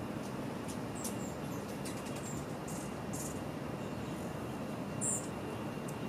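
A few short, high-pitched bird chirps over a steady outdoor background hiss, the clearest one about five seconds in.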